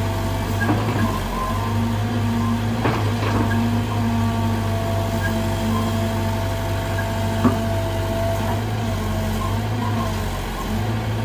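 Sumitomo SH120 A1 excavator's diesel engine running steadily under a high hydraulic whine, with a few sharp knocks, the sharpest about seven and a half seconds in. The engine runs light and the machine does not budge, which the operator puts down to a weak hydraulic system.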